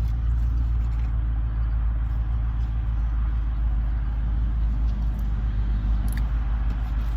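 Steady low rumble of a car, heard from inside the cabin, holding at an even level.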